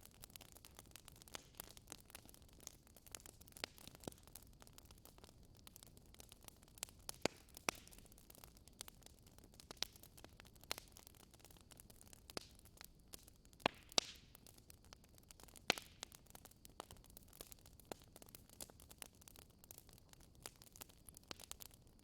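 Wood fire crackling: irregular sharp pops and snaps over a faint steady hiss, the loudest pops coming about halfway through.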